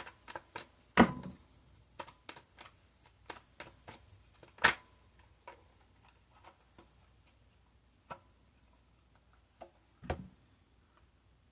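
Tarot cards being shuffled and handled: a run of quick clicks and flicks, with a few louder knocks about a second in, near five seconds and about ten seconds in, the clicks thinning out in the second half.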